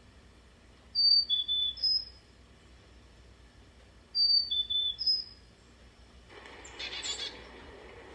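Small songbird whistling short phrases of clear, high notes that step down and back up in pitch, twice about three seconds apart. A brief rush of broad noise follows near the end.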